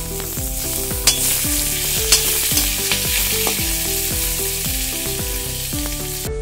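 Oil sizzling hard in an iron kadai as tomato pieces are tipped in from a perforated steel ladle and stirred with onion, coconut and peanuts, with a couple of sharp knocks of the ladle against the pan about one and two seconds in. Background music plays underneath.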